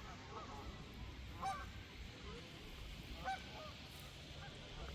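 A flock of ducks calling, with short honking calls standing out three times over fainter calls from the flock.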